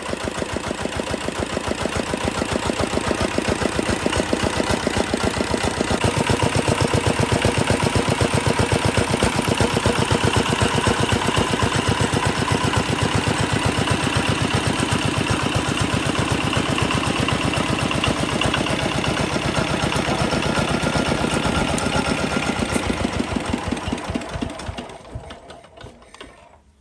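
Restored Chinese D8 single-cylinder diesel engine running with a steady, rapid knock of its firing strokes. It dies away near the end.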